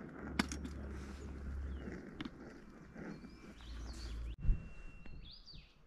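Faint bird chirps over a low outdoor rumble, with a few light clicks of a cup being handled and a short thump about four and a half seconds in.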